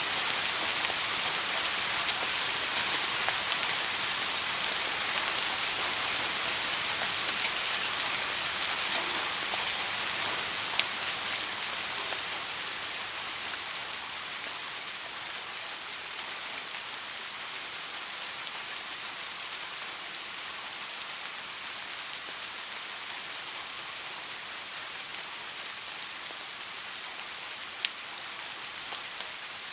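Soft rain falling steadily, an even hiss that eases a little about halfway through, with two single sharp drop ticks standing out.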